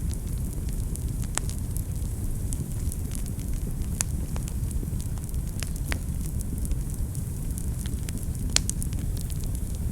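Wood fire burning in a fireplace: a steady low rumble of the flames with irregular sharp crackles and pops, the loudest about four seconds in and again near the end.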